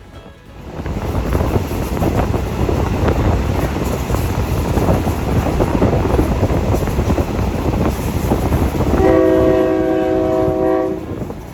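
A train running, a loud rumble building up about a second in, then its horn sounding once, a steady chord lasting about two seconds near the end.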